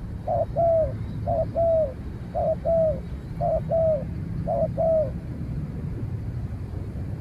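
Spotted dove cooing: a short note followed by a longer, slightly falling note, repeated five times about once a second, then stopping.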